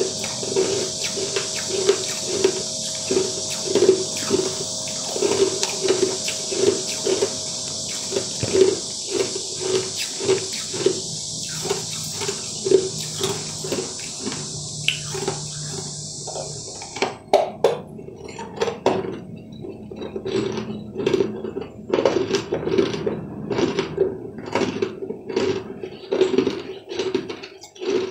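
Mouth-close chewing of a crunchy sweet, a steady chew about twice a second. A steady hiss runs underneath and cuts off about two-thirds of the way through, after which sharper crisp crunches stand out.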